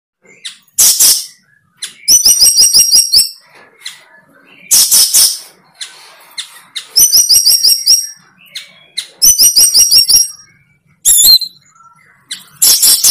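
A bird singing loudly in short phrases every second or two. Rapid trills of repeated high notes alternate with harsh, raspy bursts.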